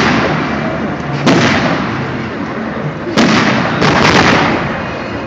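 Aerial firework shells bursting: three loud bangs, one a little over a second in and two close together past the three-second mark, each trailing off in a long echoing rumble.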